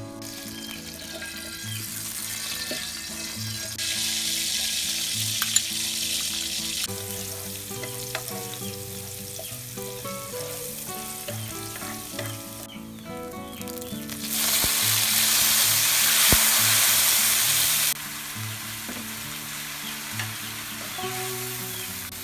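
Minced garlic sizzling in hot cooking oil in a frying pan while it is stirred. The sizzle swells a few seconds in and is loudest for a few seconds past the middle, then cuts off abruptly.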